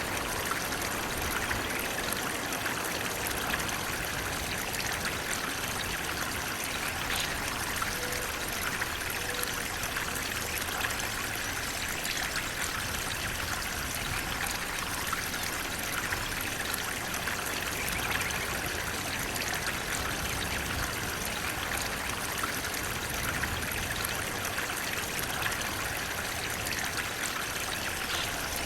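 Flowing water: a steady, unbroken rush with a trickling edge, like a stream or small waterfall.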